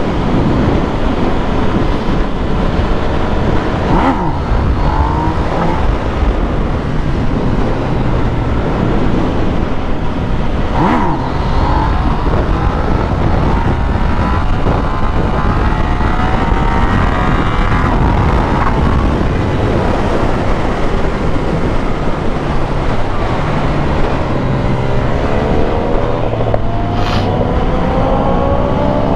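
Motorcycle engines running with heavy wind rumble on the microphone. Near the end a rising engine pitch is heard as a bike revs up and accelerates.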